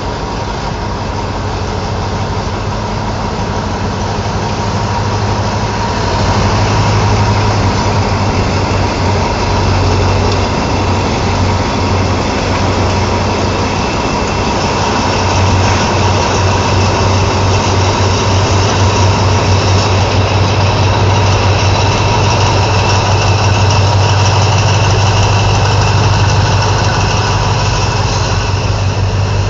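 Alsthom ALD diesel-electric locomotive's diesel engine running steadily at idle after start-up, a deep hum with a steady whine over it, growing a little louder about six seconds in and again near the middle.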